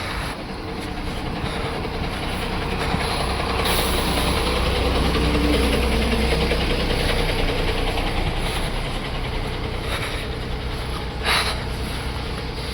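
Vehicle engine and road rumble on a rough road. It grows louder toward the middle and then eases off, with a short knock near the end.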